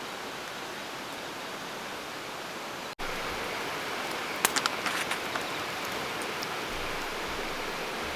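Steady rain hiss outdoors, broken by a short cut about three seconds in, then a few sharp pops and crackles from a wood campfire in the middle of the second part.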